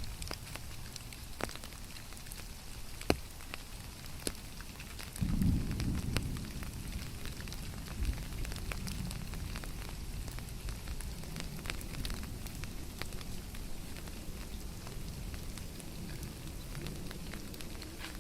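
Steady rain falling, a continuous hiss with scattered sharp drop taps, one louder tap about three seconds in. A low rumble swells up about five seconds in and carries on underneath.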